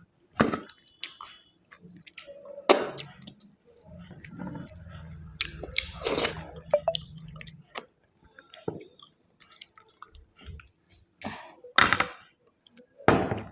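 Close-miked chewing and eating sounds of someone eating chicken biryani: wet mouth noises and lip smacks, broken by sharp clicks and crunches. A low rumble sits under them for a few seconds in the middle.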